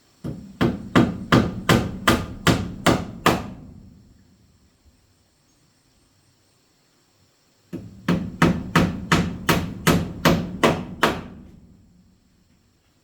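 Hammer blows, two runs of about nine evenly paced strikes, roughly three a second, with a pause of about four seconds between them.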